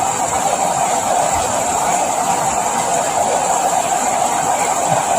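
Steady rain falling, an even, unbroken rush of noise.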